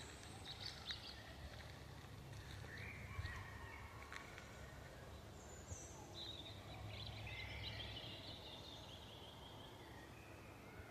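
Faint forest ambience: several small birds calling and chirping in short high phrases, over a steady low wind rumble, with a few light clicks near the start.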